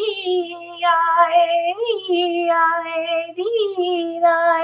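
A woman toning without words: long held notes on nearly the same pitch with a slight vibrato, broken a few times by short upward swoops of the voice.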